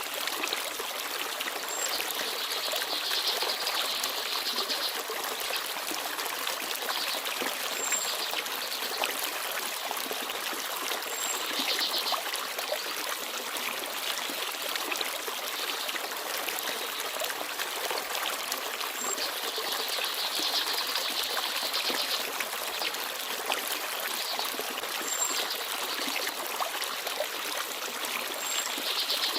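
Shallow forest stream babbling and trickling steadily over stones, with small birds giving a few brief, high chirps here and there.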